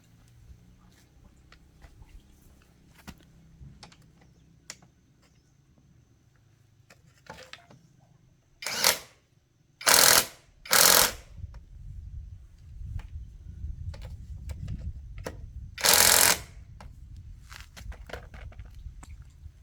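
Four short, loud bursts of hissing, each under a second, three close together in the middle and one near the end. Underneath is a low rumble and scattered small clicks and knocks.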